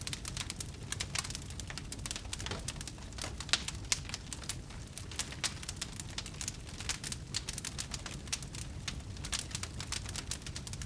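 Wood fire crackling in a fireplace: many small irregular pops and snaps over a low steady rumble of the flames, with two louder pops about three and a half and four seconds in.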